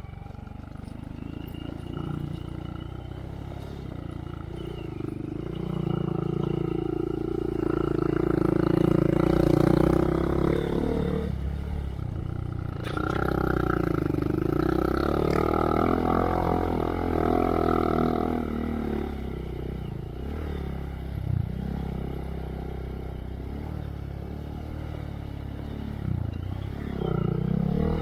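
2023 Honda Monkey's single-cylinder four-stroke engine running through a Yoshimura RS3 exhaust with spark arrestor, its pitch rising and falling with the throttle. It gets louder through two stretches of harder throttle, about six seconds in and again about thirteen seconds in.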